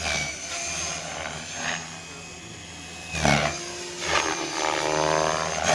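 Electric Gaui Hurricane 425 RC helicopter in flight: a steady high motor and rotor whine that swells in loudness several times as it manoeuvres, its pitch dipping briefly about three seconds in.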